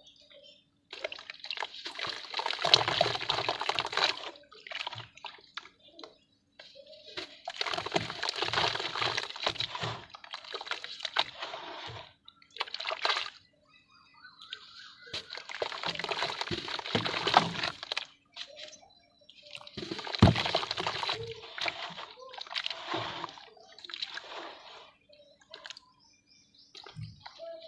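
Lumps of red dirt dipped in water and crushed, wet crumbling and splashing that comes in about six bursts of a few seconds each, with short pauses between.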